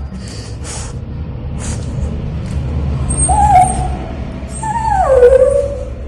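Dog whining twice while being bathed: a short whine about three seconds in, then a longer one that falls in pitch about five seconds in, over a steady low rumble and bursts of hissing.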